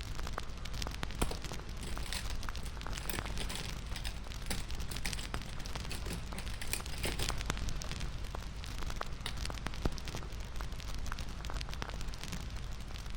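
Bonfire crackling: a steady hiss with many small, sharp pops and snaps scattered throughout.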